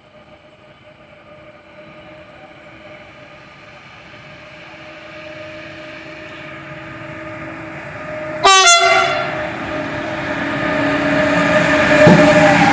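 Freight train hauled by a Class 253 (Bombardier TRAXX) electric locomotive approaching, its steady tonal hum growing louder throughout. About eight and a half seconds in comes a short, loud blast of the horn. After it, the rumble of the nearing train swells.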